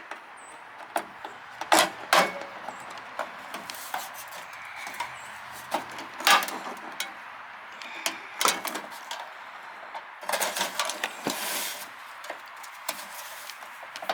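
Scattered sharp clicks and knocks of hand tools and small metal parts being handled while a pop rivet is set into a drilled hole, with a denser run of clicks near the end.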